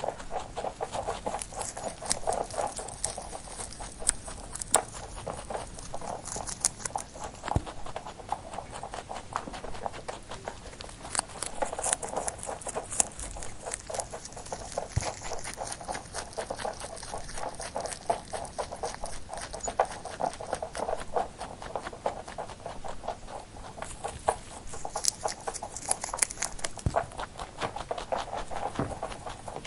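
Rabbit sounds: a dense run of quick clicks and crunching ticks that comes and goes in waves.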